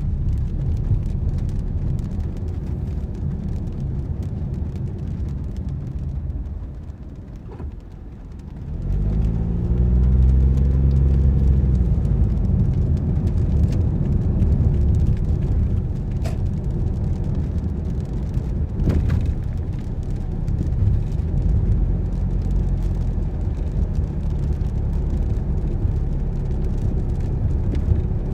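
Car driving, with steady engine and road rumble. The rumble dies down about six seconds in as the car slows, then about nine seconds in the engine note climbs as it pulls away and settles into steady cruising. A few faint clicks come later.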